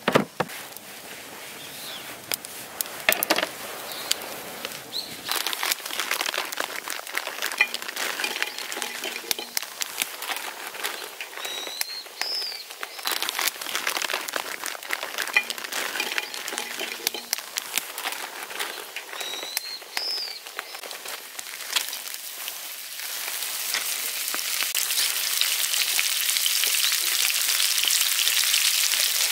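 Scattered crackling and ticking, with two short rising bird chirps partway through, then a steady hiss that builds over the last several seconds.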